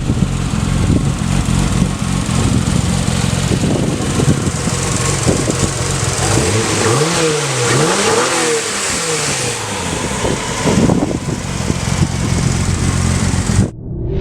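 Turbocharged Toyota 2JZ inline-six in a swapped car, running loudly and revving up and down several times through the middle, with a lot of hiss over the engine note; it cuts off suddenly near the end.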